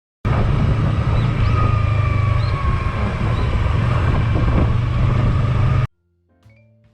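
Yamaha R3's parallel-twin engine running under way on its stock exhaust, mixed with heavy wind rush on the microphone, with the engine note easing slightly lower. It starts and stops abruptly, and soft mallet-percussion music comes in near the end.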